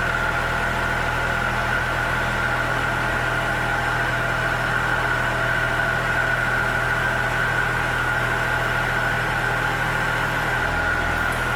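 2016 IHI 25V-4 mini excavator's diesel engine running steadily at an even speed, with a steady high whine over the low engine hum.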